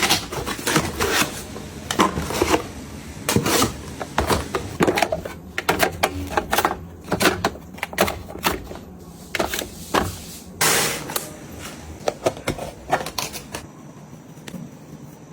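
Household items being handled, set down and fitted together: a quick, irregular run of clicks, taps and knocks, with a brief scraping rustle about eleven seconds in, thinning out near the end.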